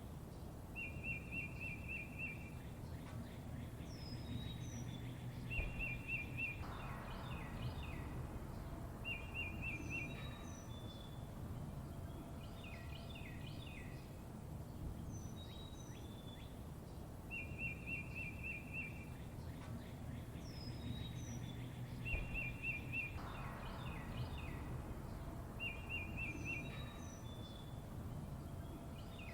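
Songbirds chirping over a steady low rumble of background noise: a short rapid trill, quick high whistled notes and clusters of chirps, with the same sequence of calls repeating about every sixteen seconds.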